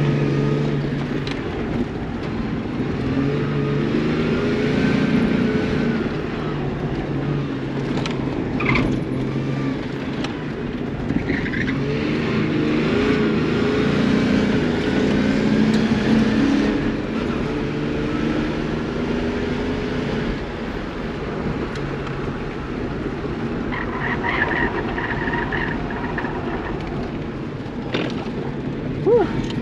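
Chevy S10 autocross truck's engine revving up and down continuously as it is driven hard through a timed course, its pitch rising and falling with the throttle.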